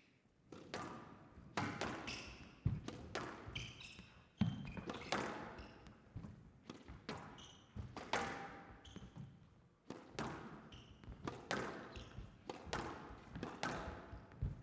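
A squash rally: the ball cracks off rackets and the walls about once a second, irregularly, with short high squeaks from shoes on the court floor between hits.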